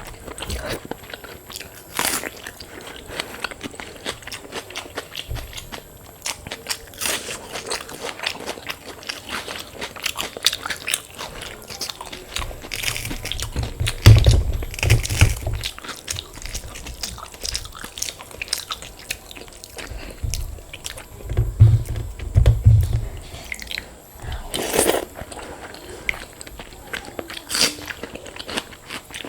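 A person eating close to the microphone: repeated crunchy bites and chewing of crisp fried food with rice, with a few loud low thumps around the middle.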